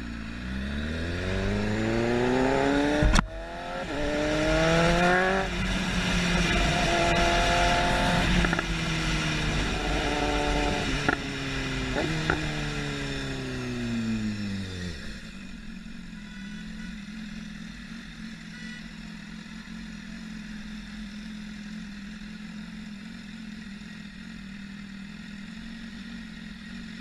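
Motorcycle engine pulling through several gears: the pitch climbs, then drops at each shift, with a sharp click about three seconds in and wind rush over the microphone. About fifteen seconds in the engine winds down as the bike slows, then idles steadily at a low pitch.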